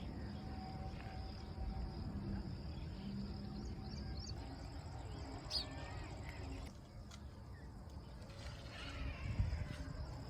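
Faint steady chirping of insects, like crickets, over a low rumble of outdoor background noise, with a few brief chirps about halfway through.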